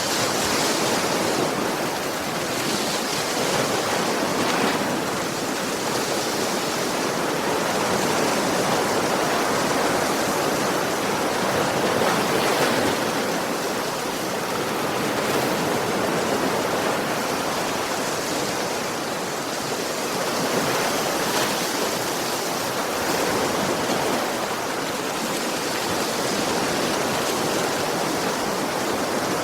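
Ocean waves washing onto a shore: a steady rush of surf that swells and eases every few seconds.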